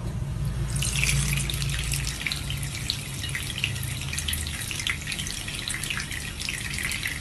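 Running water splashing, with a steady low hum underneath.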